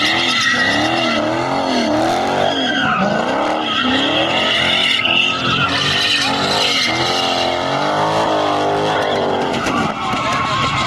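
Car engine revving hard while its tyres squeal continuously, the engine pitch rising and falling again and again about once a second: a car spinning its tyres in a burnout.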